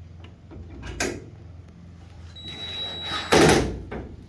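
A sharp click about a second in, then a cordless drill-driver whining and briefly whirring at speed about three seconds in while driving a screw.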